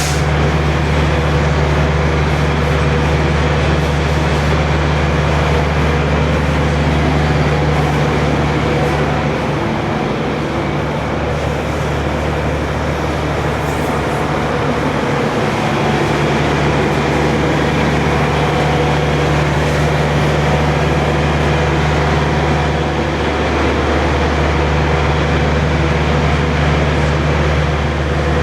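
Diesel truck engine idling steadily, a low even hum.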